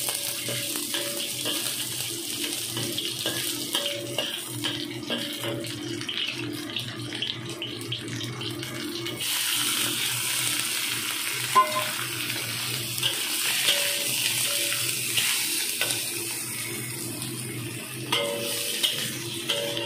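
Garlic and scallops stir-frying in hot oil in a wok: a steady sizzle with a metal spatula scraping and tapping the pan. The sizzle gets louder about halfway through, when the scallops are in the wok.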